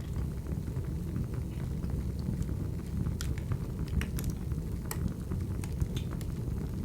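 Wood fire burning: a steady low rumble of flames with scattered sharp crackles and pops of the burning logs.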